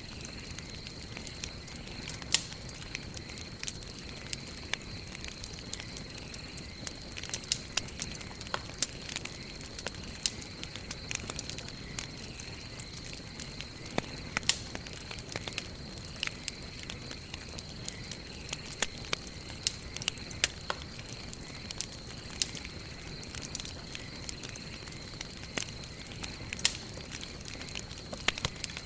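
Campfire of burning wood crackling, with frequent irregular sharp pops over a steady soft hiss. A faint steady high tone runs underneath.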